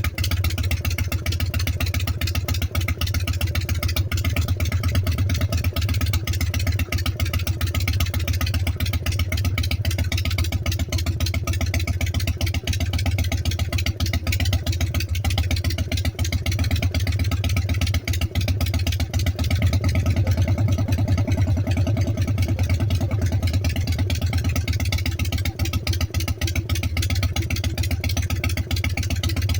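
A freshly rebuilt motorcycle engine idling steadily, its firing an even pulse with no revving.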